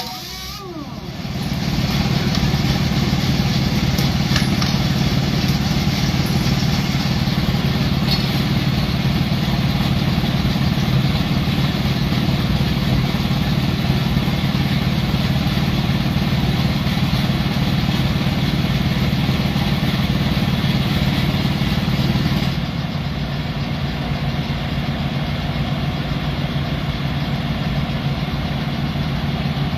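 Engine idling steadily, a little quieter from about two-thirds of the way through.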